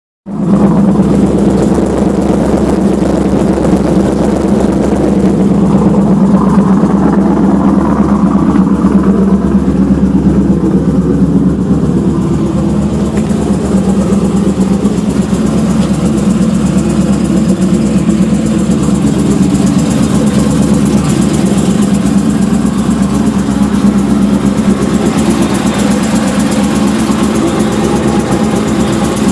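An engine running steadily at idle, with a strong even hum that does not change in speed.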